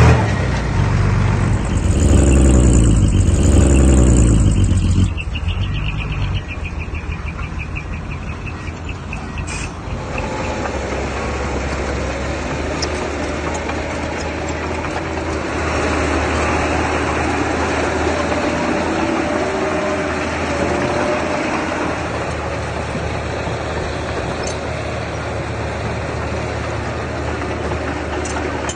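Diesel engine of heavy earthmoving machinery running, loud and changing in pitch for the first five seconds or so with a high whine over it, then settling to a steadier, quieter run.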